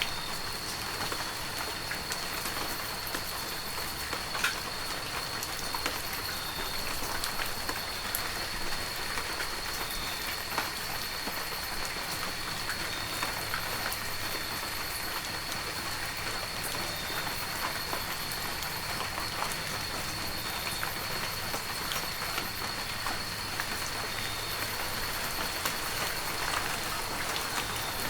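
Heavy rain falling steadily: a dense even hiss of drops with scattered sharper drop ticks. A faint steady high-pitched tone sits underneath.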